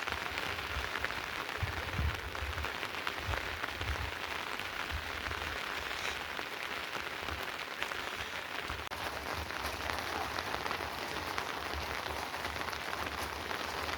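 Steady rain falling and pattering on surfaces, with many small drop ticks throughout.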